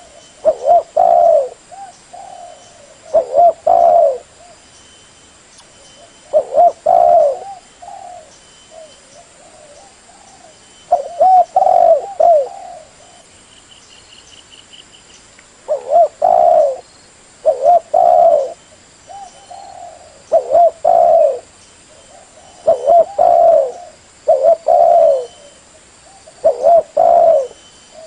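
Spotted dove cooing: loud, repeated short phrases of two or three low coos, coming every few seconds.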